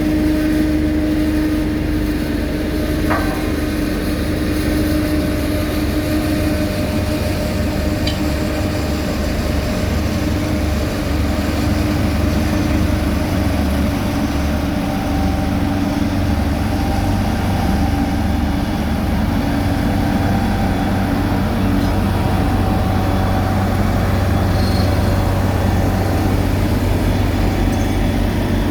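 Heavy diesel road-building machinery running steadily: a continuous low engine drone with a steady whine above it. A short squeal about three seconds in.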